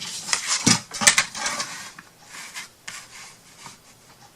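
Handling noise from craft tools and paper: several sharp clicks and knocks with rustling in the first two seconds, then fainter scattered taps and rubbing.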